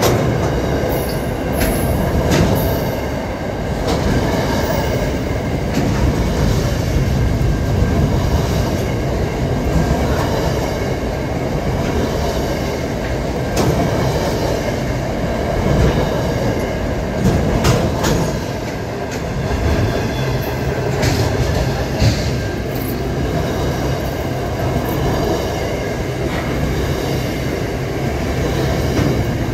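A container freight train rolling past close by: a steady, loud rumble of wagons and wheels, with sharp clicks of the wheels over the rail here and there.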